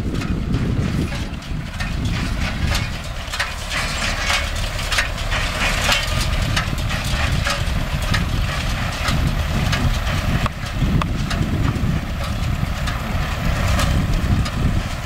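MTZ-5LS tractor's diesel engine running steadily under load while a Vestjyden hay baler works behind it, the baler's mechanism clattering with quick irregular clicks and knocks, busiest in the first half.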